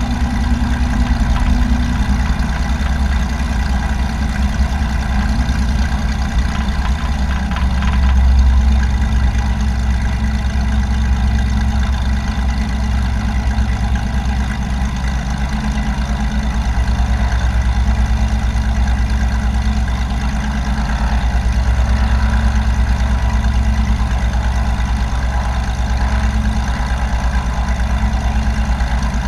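Light aircraft engine running steadily with a loud, even drone, growing a little louder about eight seconds in and again a little past twenty seconds.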